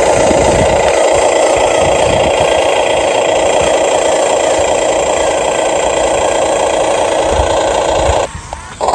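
Electric motors and gearing of a radio-controlled model construction vehicle whirring steadily, then stopping and restarting in short spurts near the end.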